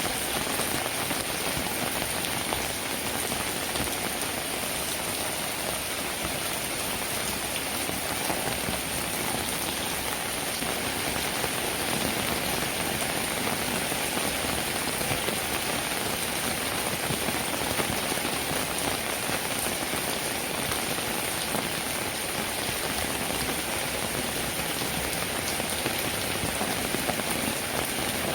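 Steady rain: a dense, even hiss of raindrops with fine pattering ticks throughout.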